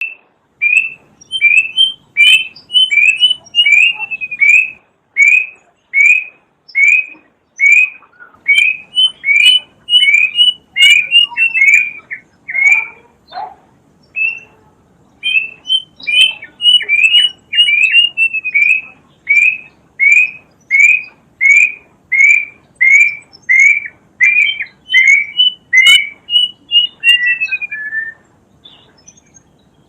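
Kedasih cuckoo singing a long series of clear, loud whistled notes, about one and a half a second. Twice the series quickens into a run of notes that falls in pitch.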